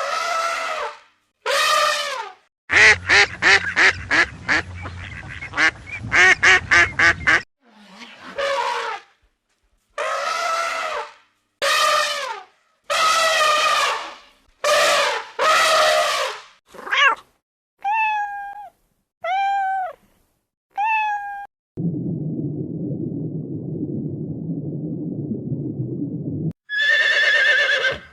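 A string of separate domestic animal calls, among them drawn-out cat meows: a rapid run of short calls for about five seconds early on, several longer wavering calls, three short high meows, then a low steady rumbling sound for about five seconds near the end.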